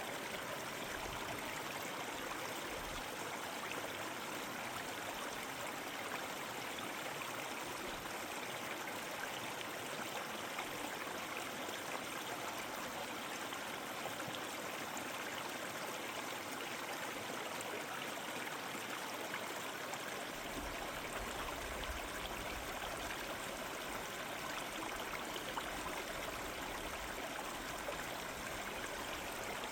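Stream water flowing and rushing steadily over rocks. A low rumble joins about two-thirds of the way through.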